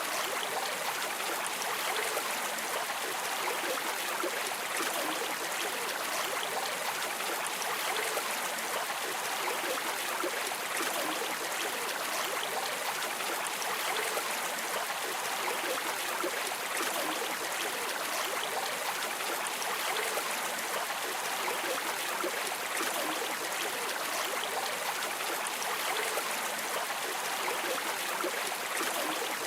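River water running steadily over stones, a continuous even rush with a light trickling texture.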